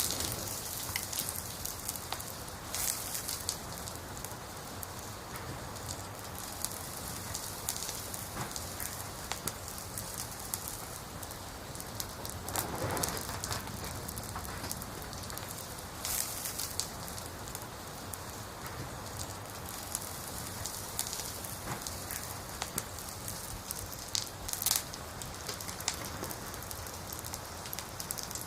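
Campfire of burning firewood crackling steadily, with a few louder pops scattered through.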